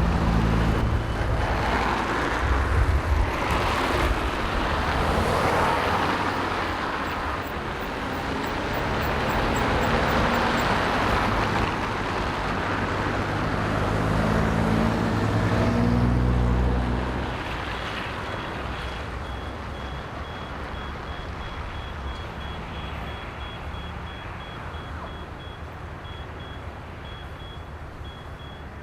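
Road traffic: motor vehicles passing, with one engine rising in pitch and then fading about halfway through. A faint thin high tone runs through the later part.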